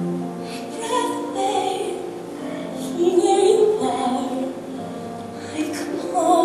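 A woman singing a slow musical-theatre ballad, holding long notes with music under her voice.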